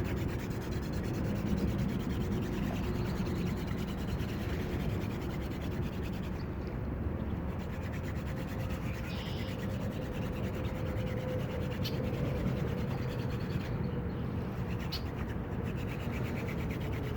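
Wooden hand drill spindle spun back and forth between the palms, its tip rubbing steadily in the notch of a wooden hearth board while trying to grind out an ember by friction.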